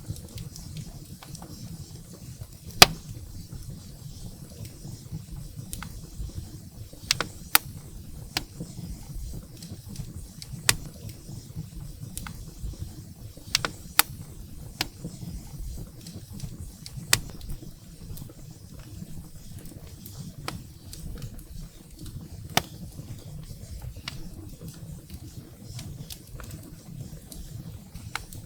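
Firewood burning in a fireplace: irregular sharp crackles and pops over a low, steady rumble of the flames, the loudest pop about three seconds in.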